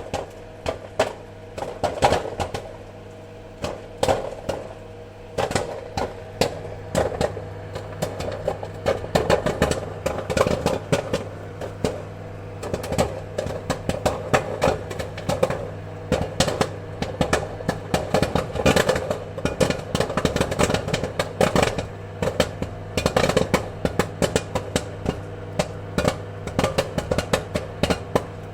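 Popcorn kernels popping in quick, irregular pops, scattered at first and coming thick and fast from about eight seconds in, over a steady machine hum.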